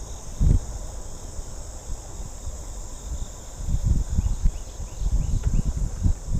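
Steady high-pitched chorus of insects, with wind rumbling on the microphone in uneven gusts, strongest about half a second in and again over the last two seconds.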